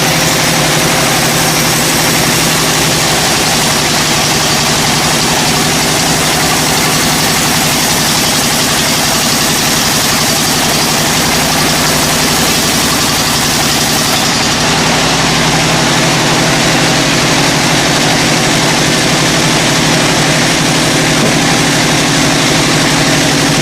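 Machine engine running steadily and loudly, with a dense hiss over its low hum that shifts slightly about halfway through.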